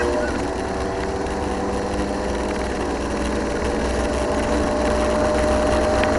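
Rally car engine heard from inside the cabin, running at high revs under load, its pitch climbing slowly before dropping sharply near the end, over a steady low road rumble.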